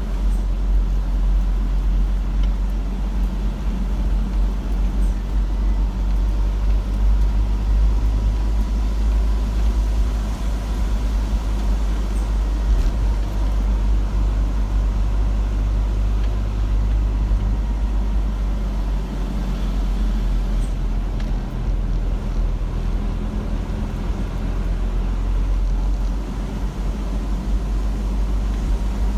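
Steady low rumble of a car driving along a road, with engine hum and tyre and road noise heard from inside the car.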